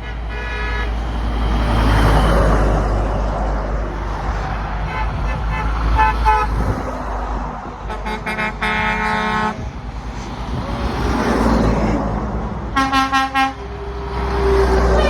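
Trucks driving past one after another, sounding their horns: several separate horn blasts, with a quick run of short toots about three-quarters of the way through. Underneath is the swelling rush of each truck going by and a steady low rumble.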